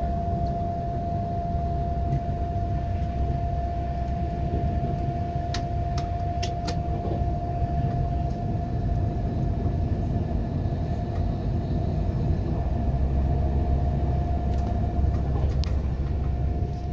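Passenger train running at speed, heard from inside the carriage: a steady low rumble of wheels on the track with a constant whine. A few sharp clicks come in a quick cluster about six seconds in, and one more near the end.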